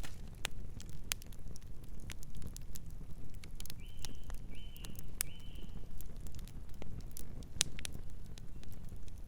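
Campfire crackling: sharp pops and snaps scattered over a steady low rumble. A bird calls three short notes about four to six seconds in.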